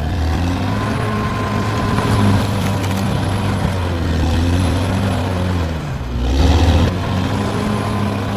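Caterpillar D6R XL bulldozer's diesel engine running under working load, its pitch rising and falling as the load changes, with a thin whine over it early on. A little after six seconds in the engine briefly drops and then surges louder.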